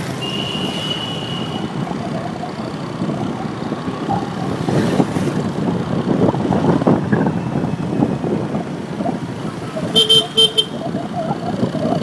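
Motorcycle riding through town traffic: a steady rumble of engine and road noise. A horn sounds once, held for about a second and a half, right at the start, and a quick series of about four short horn beeps comes near the end, the loudest sound here.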